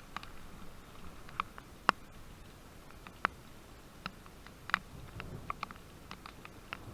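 Raindrops tapping irregularly close by: scattered sharp drip-ticks, about fifteen of them, over a faint steady wash of falling rain.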